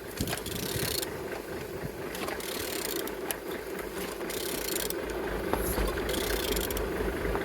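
A used engine being turned over by hand, with ratcheting and mechanical clicking as the crankshaft rotates. It turns smoothly, showing the engine is not seized.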